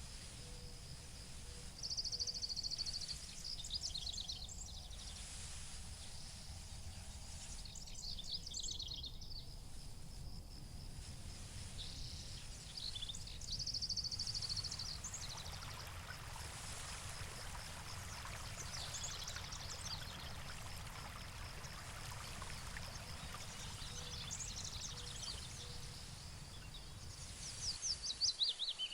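Meadow ambience: songbirds singing short, repeated phrases every few seconds over a steady, high insect trill, with a low rumble underneath.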